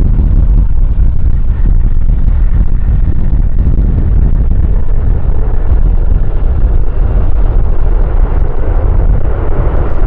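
Strong wind buffeting the microphone, with the steady rumble of a jet airliner on its landing rollout beneath it.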